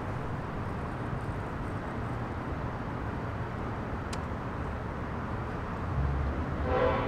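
Slow-moving intermodal freight train rolling past with a low, steady rumble. Near the end the locomotive's horn starts to sound.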